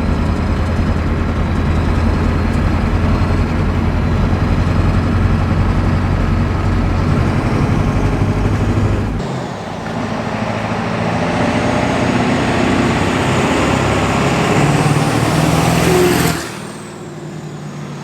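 Ford 7.3 L Powerstroke turbo-diesel pickup being driven, with steady engine and road noise. About nine seconds in the sound shifts, and near the end a high whine rises, then the sound drops off suddenly.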